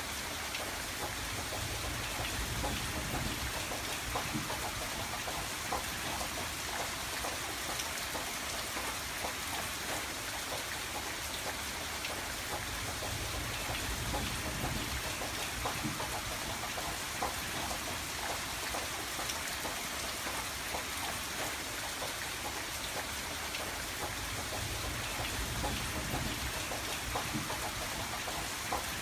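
Steady rain on window glass, with many small drop ticks over an even hiss, and a low rumble that swells and fades a few times.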